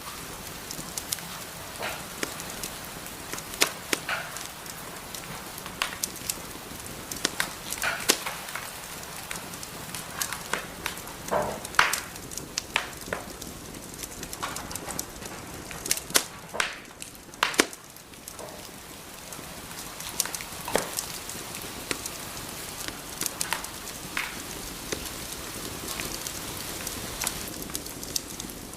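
Wood fire burning in a fireplace: a steady hiss with irregular sharp crackles and pops, busiest in the middle stretch.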